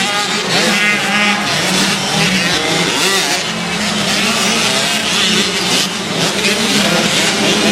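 Several motocross dirt bikes racing, their engines revving up and down in pitch as they ride the track, with overlapping engine notes.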